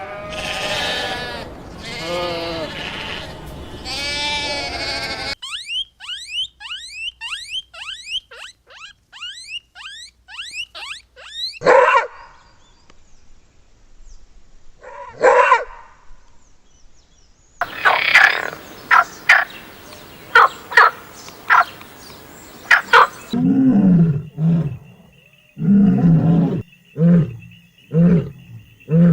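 A series of different animal calls, one after another: a drawn-out pitched call, then a fast run of short falling bird notes, then several separate loud calls, and near the end a string of short, low, pulsed calls.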